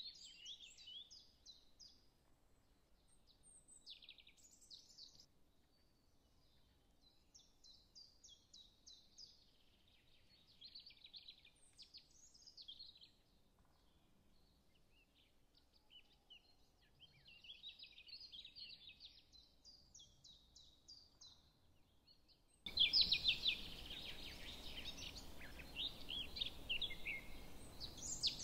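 Faint small birds chirping and twittering in quick trills, in repeated bursts. About three-quarters of the way through, a steady low hiss comes in and the chirping gets louder.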